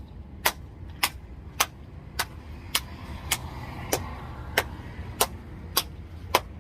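Steady, evenly spaced clicking, a little under two clicks a second, over a low steady hum.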